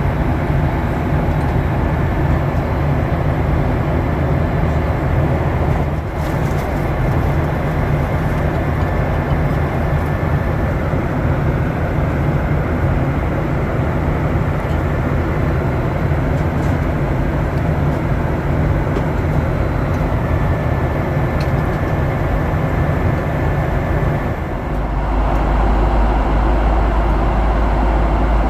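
Steady, loud cabin noise of a Boeing 737-800 jet airliner, engines and airflow heard from inside the cabin; near the end a heavier deep rumble sets in.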